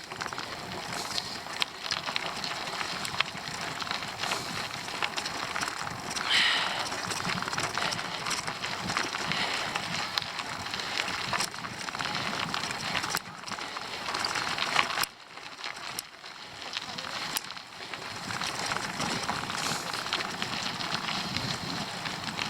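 Bicycle being ridden up a steep climb: steady rolling noise of the tyres on the road surface, with scattered clicks and knocks from the bike.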